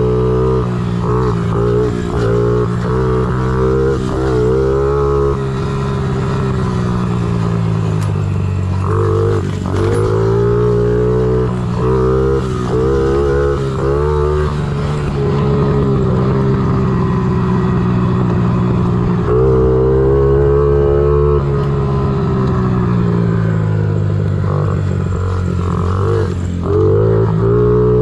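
Honda CRF50 pit bike's small single-cylinder four-stroke engine being ridden, its revs rising and falling again and again with the throttle, with steadier stretches in the middle.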